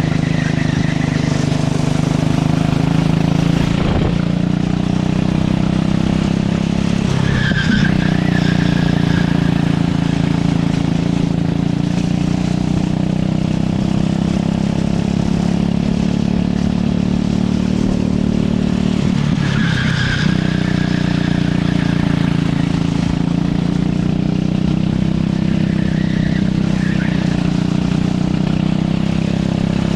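Racing kart engine running hard on circuit, its pitch dropping briefly and climbing back three times as the kart slows for corners and accelerates out, with a short tyre squeal in two of the slowdowns.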